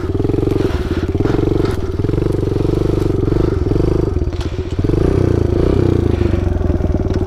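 Small dirt bike engine revving in repeated surges while the bike is stuck, with a cord wrapped around it. There is a brief dip in the revs about two-thirds of the way through.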